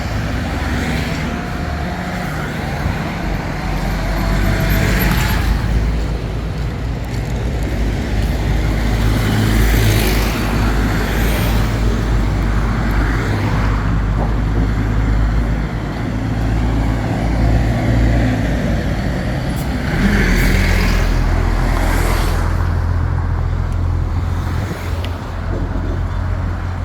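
Road traffic close by: motor vehicle engines running with a steady low rumble, and vehicles passing by louder about five, ten and twenty seconds in.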